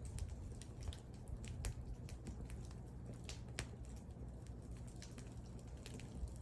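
Wood fire burning, with sharp irregular crackles and pops from the burning wood over a low steady rumble of the flames.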